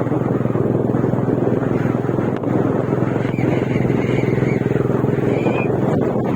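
Motorcycle engine running steadily at cruising speed, heard from on board while riding along a rough road.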